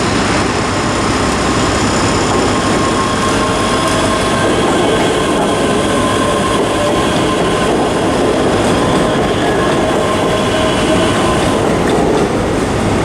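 ScotRail Class 385 electric multiple unit pulling out of the platform, its running noise steady throughout, with a thin high whine held over it.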